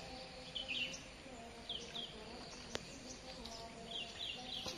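Birds chirping in the tree canopy, short high calls repeated over a steady outdoor background, with one sharp click a little past halfway.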